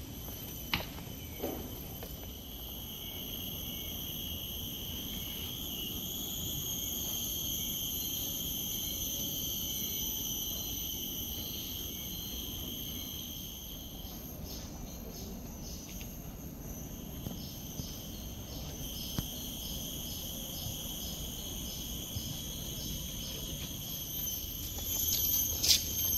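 Insects calling in a steady high-pitched drone that drops out for a few seconds midway, with a second, pulsing insect call of about two pulses a second in the later part.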